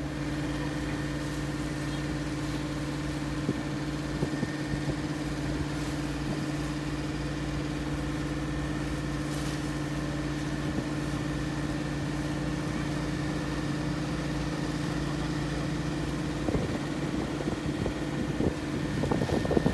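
Boat engine running steadily at an even pitch, heard from on board. Near the end a louder, irregular rushing noise comes in over it.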